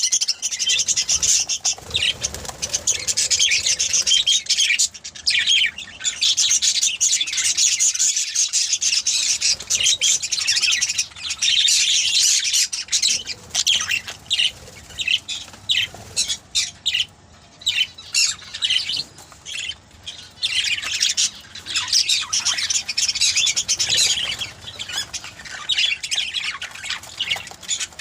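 A flock of budgerigars chirping and chattering continuously, with high squawks over one another and short lulls.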